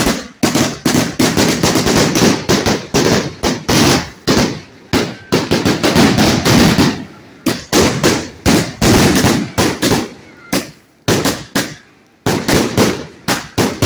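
A 150-shot compound firework cake firing, a rapid string of loud bangs several a second. The shots come thickest in the first half and are more spaced out toward the end.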